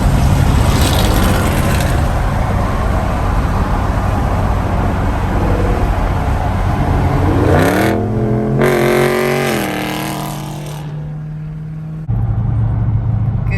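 Car engine running loudly, revving up about seven seconds in, holding briefly, then dropping back. The sound changes abruptly near the end.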